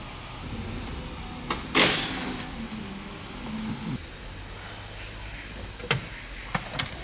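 A sharp click and a thud about two seconds in. A small electric motor runs steadily until about four seconds in and rises in pitch just before it stops. A few light clicks follow near the end.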